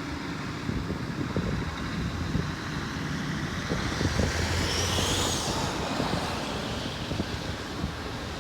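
Motor vehicle engine running nearby as a steady low rumble, with wind noise on the microphone and a faint high squeal about five seconds in.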